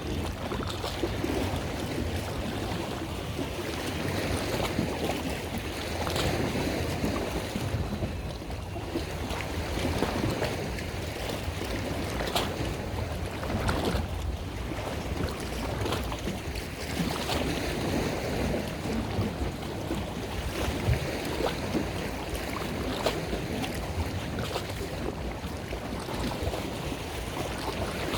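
Steady rush of water and wind on a moving boat, with a low rumble underneath and a few faint knocks.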